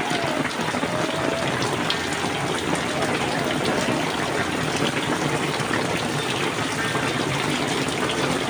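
Heavy rain falling steadily, a constant downpour.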